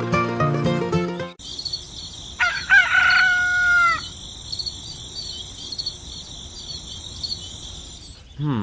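Music stops abruptly about a second in. A rooster then crows once over a steady background of high chirping.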